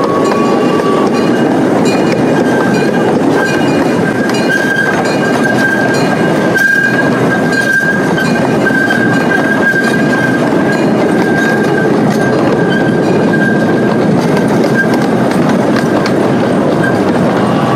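An open-sided park train heard from aboard: a steady rumble of the wheels running on the track. A thin, steady, high-pitched squeal from the wheels joins a few seconds in and lasts until near the end.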